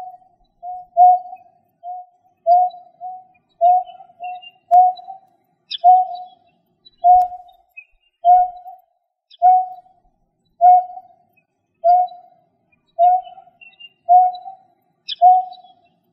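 A bird's low, hollow call note repeated steadily about once a second, several coming in quick pairs near the start and then evenly spaced singles, a decoy call for cà cuốc, rẽ hoa and nhác hoa. Faint high chirps from other birds sound in the background.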